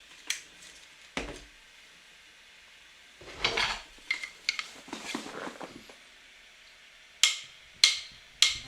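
Handling noises on a hard surface: a few separate sharp taps or clicks, and in the middle a couple of seconds of rustling with light knocks.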